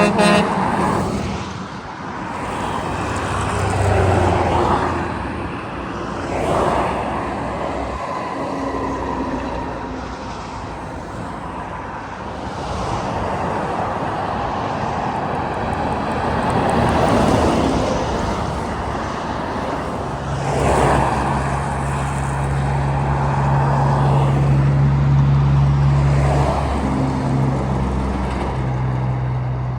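Road traffic: vehicles passing one after another, each swelling and falling away with tyre and engine noise. From about twenty seconds in, a heavy truck engine drones steadily underneath.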